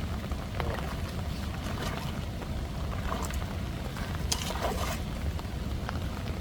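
Fast floodwater of a swollen stream rushing past, a steady low rumble with a few faint higher splashes.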